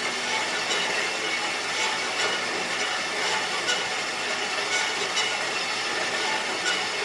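Bandsaw running and cutting through a steel haybine link arm: a steady, even sawing noise with faint, irregular ticks.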